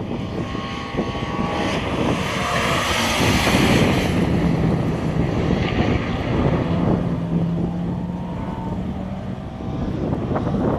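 An engine-driven vehicle passing by, swelling to its loudest about three to four seconds in and then easing off, with a steady engine note held through the middle.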